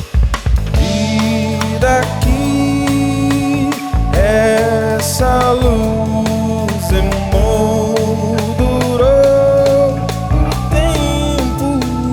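A band playing a song: a singing melody line over sustained keyboard chords, with a drum kit keeping time.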